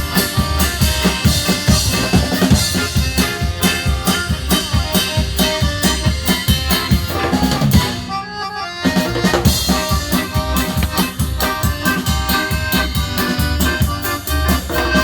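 Live band playing upbeat dance music with a steady drum-kit beat and accordion. About eight seconds in, the drums stop for under a second, then the full band comes back in.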